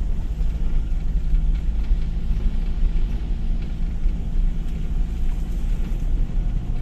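Two-wheel-drive Toyota HiLux driving along: a steady engine drone with low road rumble.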